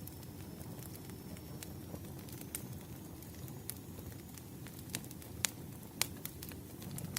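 Wood fire crackling, with irregular sharp pops over a low steady rumble; the two loudest pops come about five and six seconds in.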